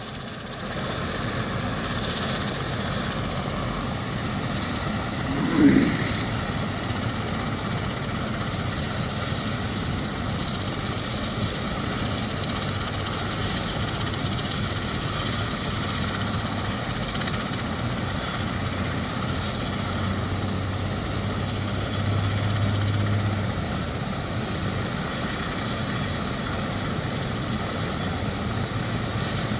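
Medical helicopter running on a rooftop helipad, a steady, unbroken whir of engine and rotor. One short, louder sound cuts in about six seconds in.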